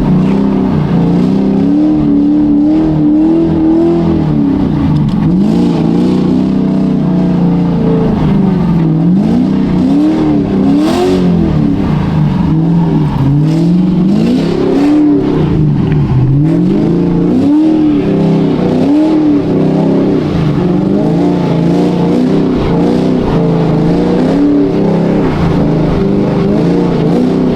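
A Chevrolet Camaro's V8 being revved again and again. The pitch climbs and drops in quick swells, one or two a second, as the wheels spin and the car slides on snow.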